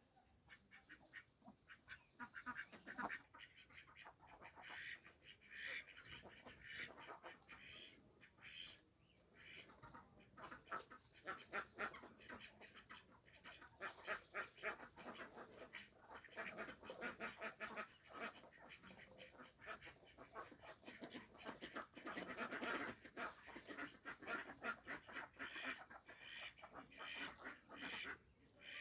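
Indian runner ducks quacking in rapid runs of short quacks, with brief lulls between the runs.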